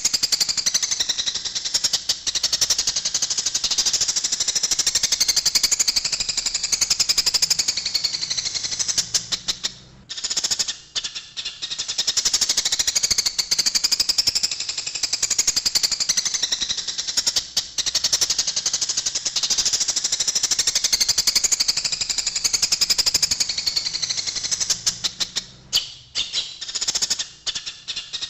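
Eurasian tree sparrows chattering rapidly and densely, the agitated calls of sparrows fighting. The calling breaks off briefly about ten seconds in and again near the end.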